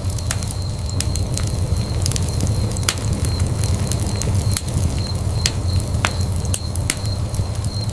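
Wood fire burning in a fireplace, crackling: irregular sharp pops and snaps over a steady low rumble of flames.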